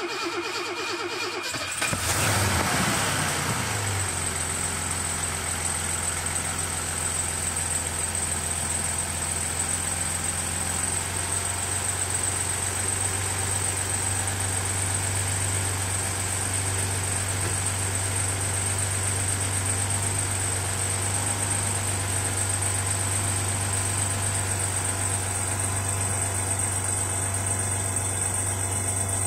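Mercedes M110 2.8-litre twin-cam straight-six starting from cold in frost. It catches about two seconds in with a brief loud burst, then settles into a steady idle with a constant high-pitched whine.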